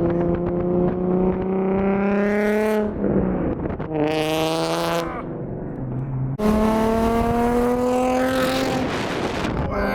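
Nissan 350Z V6 engine through a Tomei aftermarket exhaust, accelerating hard through the gears. The pitch climbs steadily, drops sharply at upshifts about three and five seconds in, runs lower and softer for a moment, then climbs again from about six and a half seconds until near the end.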